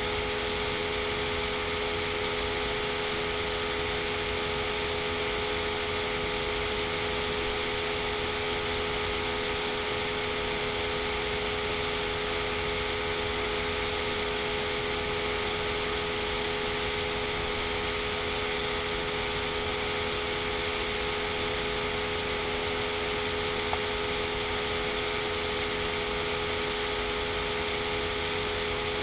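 Steady machine hum and hiss with a few constant tones, unchanging throughout.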